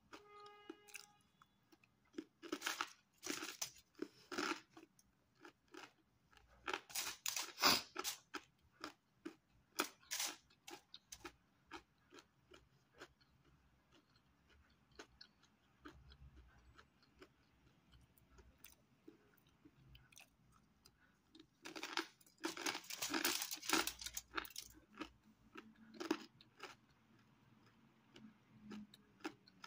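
Close-up crunching and chewing of crispy pizza crust, in several bursts of crisp crackling with quieter chewing and single mouth clicks between.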